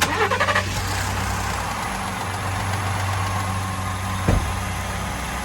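Ford F-150's 3.5L EcoBoost twin-turbo V6 idling steadily with fresh oil in it. A short rising sound comes right at the start, and a single knock about four seconds in.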